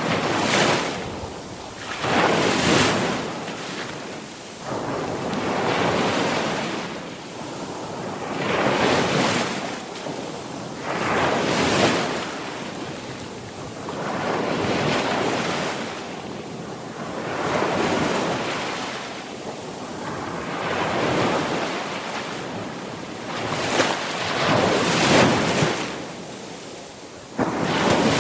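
Sea surf: waves breaking and washing in, the rush swelling and falling back about every three seconds.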